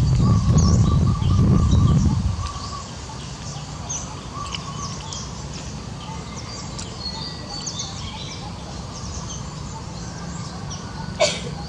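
Birds chirping repeatedly in the background, with a loud low rumble over the first two seconds or so and one sharp click near the end.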